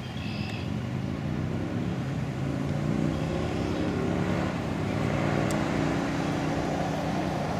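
A motor vehicle's engine running close by: a steady low drone whose pitch shifts slowly, growing louder after about two seconds.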